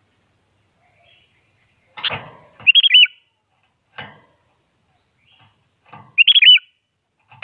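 Sooty-headed bulbul (kutilang) giving two short, loud whistled phrases about three and a half seconds apart, each right after a brief rustle or flutter. A third rustle falls between them.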